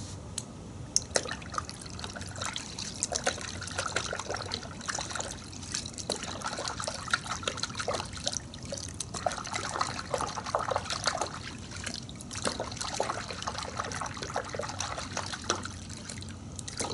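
Car wash soap being poured into a bucket of warm water: irregular trickling and small splashes of liquid in the bucket.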